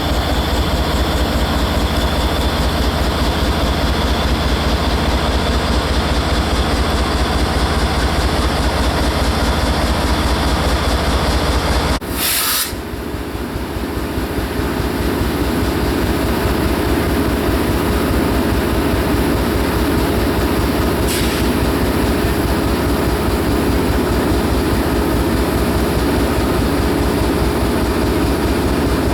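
Florida East Coast Railway train running with a loud, steady rumble. About twelve seconds in the sound changes abruptly and a steady hum comes in over the rumble.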